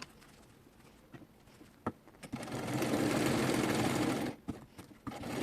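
SIGMA domestic sewing machine running for about two seconds, stitching a short seam across the corner of a fabric box. A few light clicks come before and after the run.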